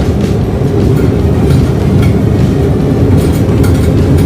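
Ship's engine running: a loud, steady, heavy low rumble with faint scattered ticks above it.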